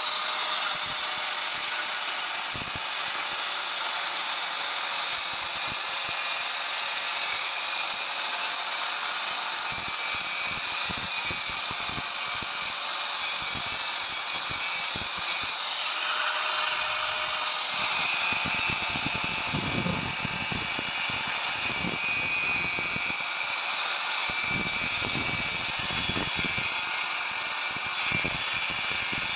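A power tool running steadily on metalwork, giving a continuous hiss with irregular faint low knocks underneath.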